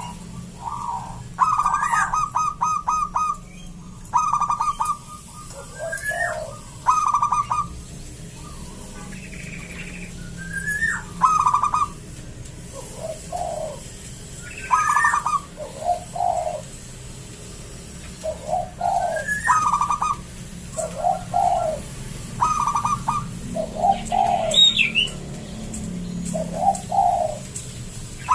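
Zebra dove (perkutut) cooing over and over: quick stuttering trills of coos, notes that swoop upward, and lower coos, in phrases a second or two apart. A brief higher chirp comes about three-quarters of the way through.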